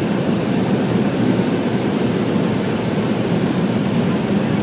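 Automatic car wash air dryer blowers running, heard from inside the car: a steady, even rushing of air blowing the water off the car.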